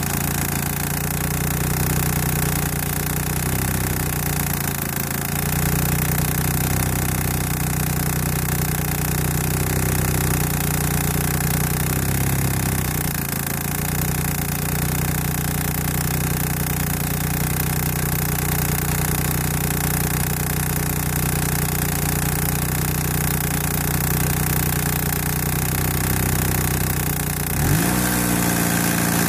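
1991 Eagle Talon TSi AWD's turbocharged four-cylinder engine idling steadily, the car's tick noise being the subject. It is revved briefly near the end, its pitch rising and falling back.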